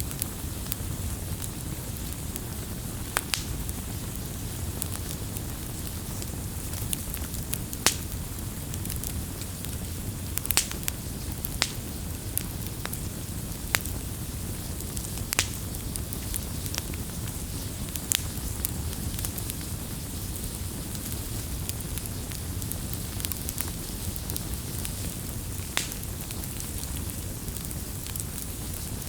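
Wood fire burning with a steady low rush of flame, broken by sharp crackles and pops at irregular intervals.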